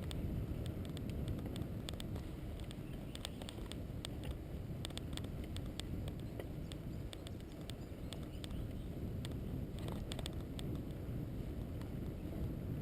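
Steady low rumble of wheels travelling over a rough road surface under repair, with many scattered sharp clicks and ticks.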